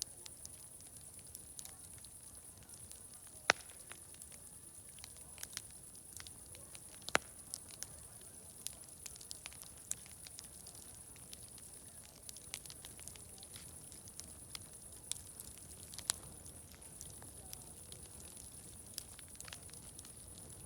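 Wood fire crackling, with irregular sharp pops throughout and a few louder snaps about three and a half seconds in, about seven seconds in and about sixteen seconds in.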